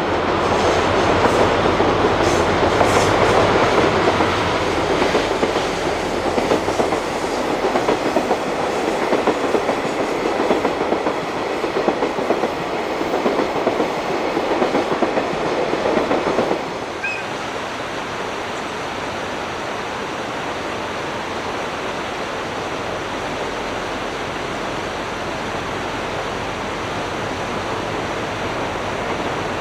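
Freight train passing, its wagons' wheels clattering steadily over the rail joints. About halfway through the clatter cuts off abruptly, leaving a steady rushing noise.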